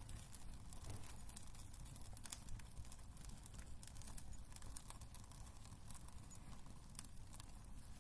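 Wood fire crackling in a fireplace: irregular sharp pops and snaps over a soft, steady low rumble of the flames.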